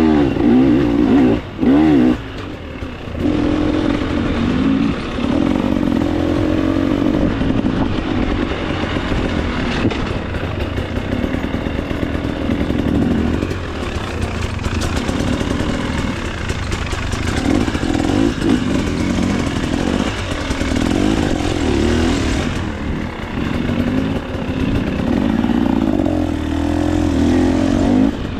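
KTM 300 XC-W two-stroke single-cylinder dirt bike engine revving up and down under changing throttle, with chassis clatter. The throttle is briefly closed twice in the first few seconds.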